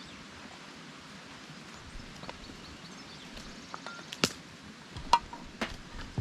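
Steady faint outdoor background with a few sharp knocks or clicks in the second half, the loudest about four seconds in.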